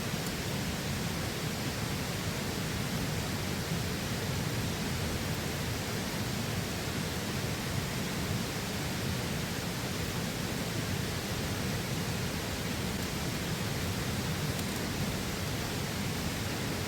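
Steady rush of a flowing river, an even unbroken sound of moving water.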